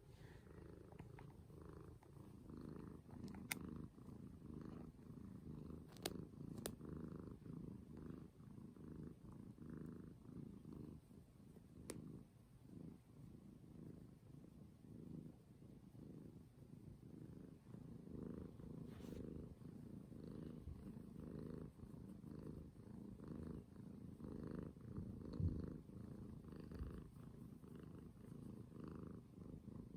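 Domestic cat purring close to the microphone: a soft, continuous rumble that pulses rapidly, with a few faint clicks here and there.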